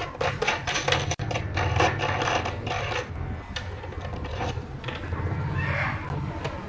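A small power-tool motor running with a steady low hum, with a quick run of metallic clicks and rattles over the first few seconds and a few more near the end.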